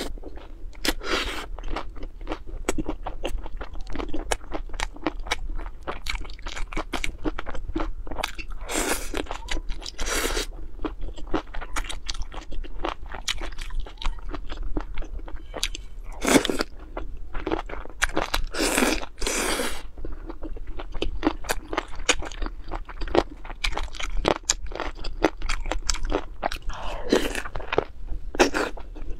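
Close-miked wet chewing and crunching, a person eating chicken feet in chilli, with a steady stream of small clicks from mouth and chopsticks. A few longer, louder mouth sounds come just past the middle and again near the end.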